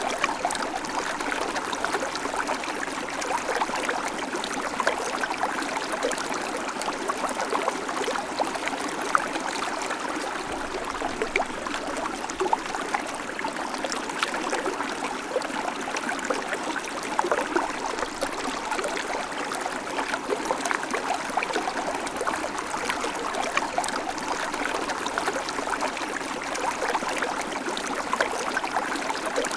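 Babbling creek: water running steadily over stones, with many small trickles and splashes.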